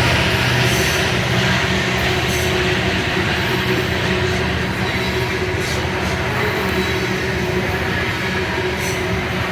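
Freight train rolling past: a steady rumble of the train with wheel noise on the rails and a few faint clicks.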